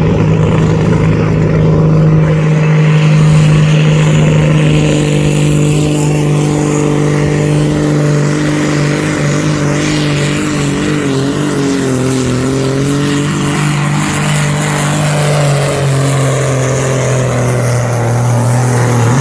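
Modified super-class pulling tractor's engine running flat out through a long pull, a loud steady high-revving note that sags slightly in pitch midway and settles a little lower near the end as the sledge load builds.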